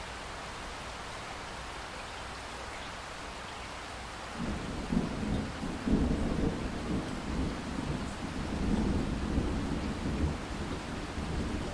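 Steady rain falling, then, about four seconds in, a long low rumble of thunder rolls in and keeps rumbling under the rain.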